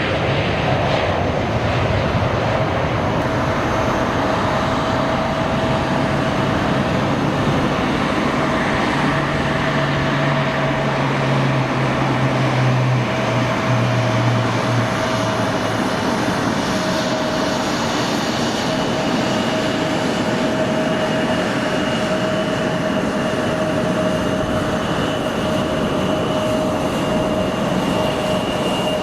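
Jet airliner engines running steadily: a constant rumbling noise with a steady whine, unchanging in level.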